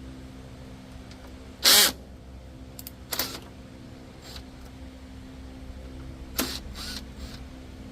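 Hand tools working on a riding mower: four short clatters, the loudest about two seconds in and the others near three and six seconds, over a steady background hum.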